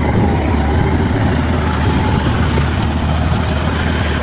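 Bulldozer's diesel engine running steadily with a deep, even low hum.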